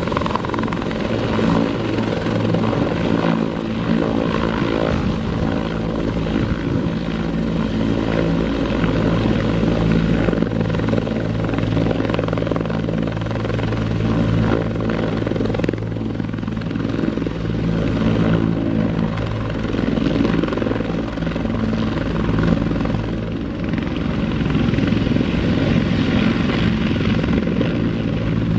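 Helicopter running steadily, its rotor and turbine engine making a continuous low drone.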